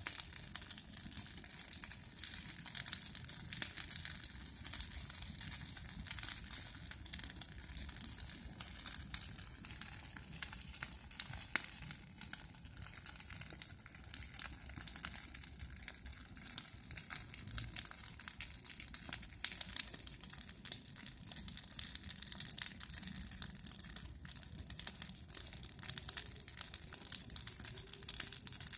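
Bonfire of burning branches crackling, with many sharp pops over a steady hiss.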